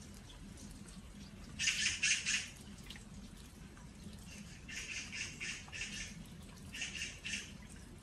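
Bird calling in three bursts of quick, repeated chirps, the loudest about two seconds in and shorter ones around five and seven seconds, over light autumn rain pattering on earthenware jars.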